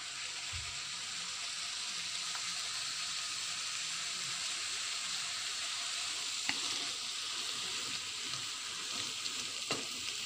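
Oyster mushrooms and tempeh sizzling steadily as they stir-fry in a metal wok, with two light clicks of the metal spatula against the pan in the second half.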